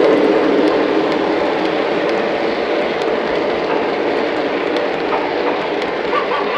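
Lionel Doom Liner O gauge model train running on three-rail track: a steady rolling rumble with a few faint clicks.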